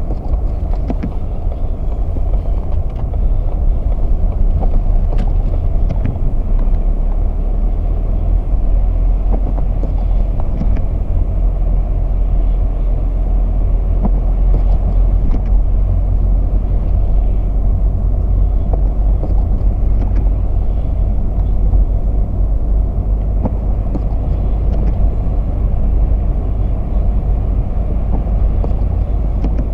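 Steady low rumble of a vehicle driving, with road and engine noise, and a few faint clicks on top.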